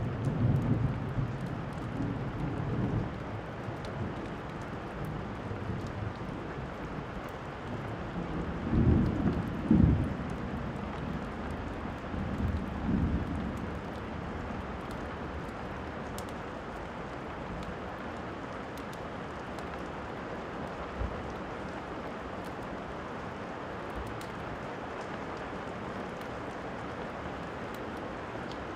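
Steady rainfall with rolls of thunder rumbling in the first few seconds, then a louder double roll about nine seconds in and a shorter one around thirteen seconds, before the rain carries on alone. Faint scattered crackles of a wood fire sit over the rain.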